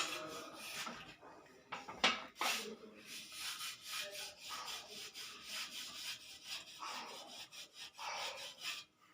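Irregular scratching and rubbing, with a couple of sharp knocks about two seconds in, followed by a long run of rapid scratchy strokes.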